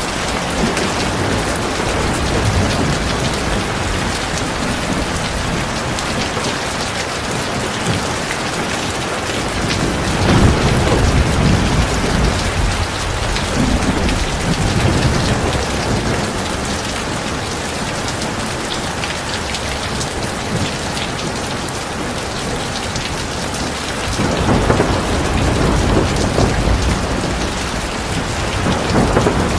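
Heavy rain pouring steadily, with low rumbles of thunder swelling up about a third of the way in and again near the end.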